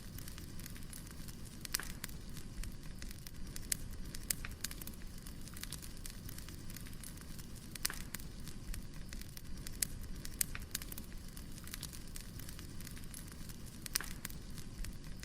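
Firewood burning: a steady low rush of flames with irregular sharp crackles and pops.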